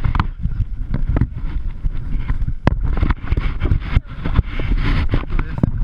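Wind buffeting the microphone on a speedboat under way, over a steady low rumble, with scattered sharp knocks.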